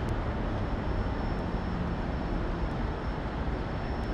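Steady low rumble of vehicle noise with no clear changes, under a faint steady high whine.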